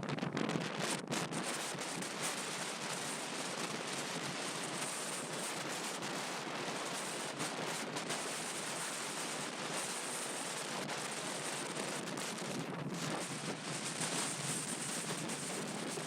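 Strong wind storm blowing across the microphone: a steady rushing noise with small dips and surges.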